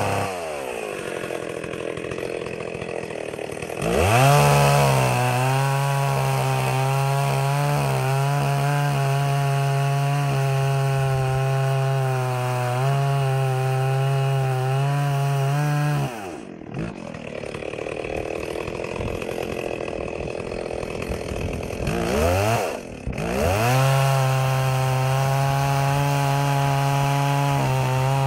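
Stihl 038 Magnum two-stroke chainsaw idling, then revving up about four seconds in and held at high speed, cutting wood, for about twelve seconds. It drops back to idle, then revs up again near the end and holds at high speed.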